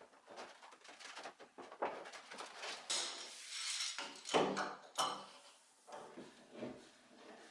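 A run of small clicks, clinks and knocks from objects being handled, with a scraping stretch about three seconds in and two louder knocks about four and five seconds in.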